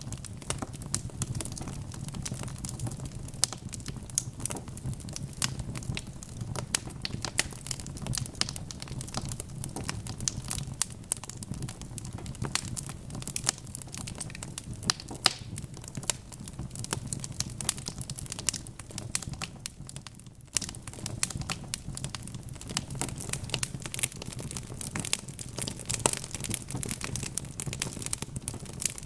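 Logs burning in a fireplace, crackling: a steady stream of sharp pops and snaps of varying loudness over a low, even rumble of the fire.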